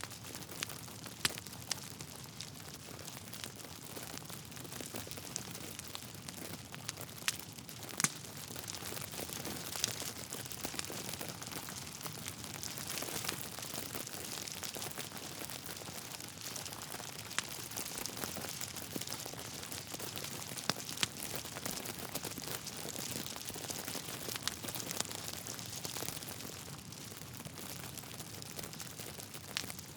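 Wood fire burning in a fireplace: a steady hiss of flames with irregular crackles and occasional sharp pops from the burning logs.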